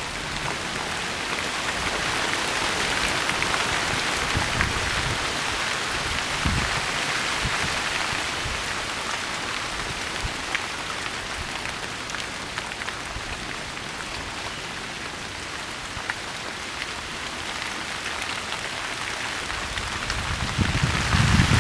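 Steady rain falling, an even hiss with scattered ticks of drops; a low rumble rises near the end.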